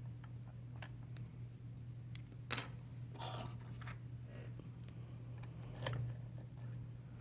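Small metallic clicks and clinks from handling a just-picked pin tumbler lock and its picking tools, three sharper clicks about a second, two and a half, and six seconds in, over a steady low hum.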